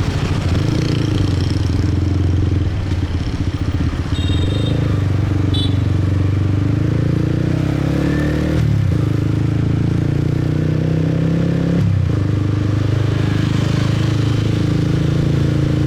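Motorcycle engine running under way. Its pitch climbs and then drops sharply twice, about halfway through and again about three-quarters through, as when the rider accelerates and shifts gears. A few brief high-pitched tones sound about four and five and a half seconds in.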